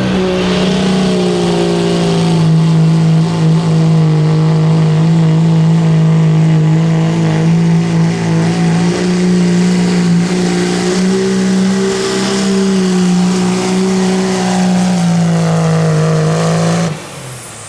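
Pulling vehicle's engine running hard at high revs during a pull run, holding a nearly steady high note with small wavers in pitch. It cuts off suddenly near the end.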